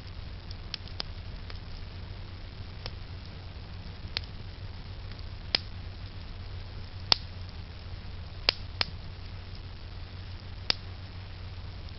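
Wood burning in a campfire, popping and cracking sharply at irregular intervals, about ten pops, the loudest past the middle, over a steady low rumble.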